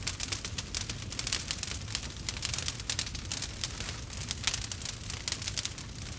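Campfire burning, with dense, irregular crackles and pops of burning wood over a low, steady rumble of the flames.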